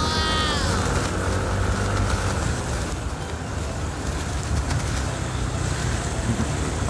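Riding noise from a Yamaha N-MAX scooter's single-cylinder engine and the wind on a wet road: a steady low rumble with an even hiss over it. A brief tone falls in pitch in the first second.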